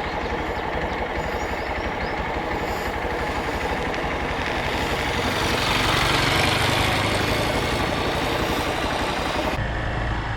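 Motorcycle engine running at a steady beat while riding, with rushing noise swelling about halfway through and the sound changing abruptly near the end.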